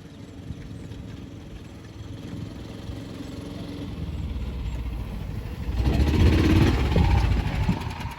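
A motor vehicle engine running, building gradually and loudest from about six seconds in, then dropping away near the end.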